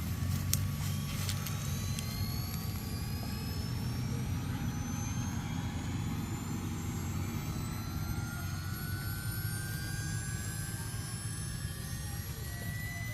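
A motor runs steadily with a low hum, and faint thin whines rise slowly in pitch over several seconds. There are a few light clicks near the start.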